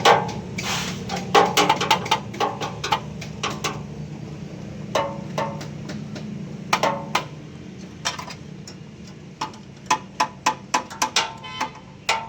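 Irregular sharp metal clinks and taps, each with a short ring, from hand tools working on metal during car AC compressor fitting. They come over a steady low hum that fades out a little past halfway.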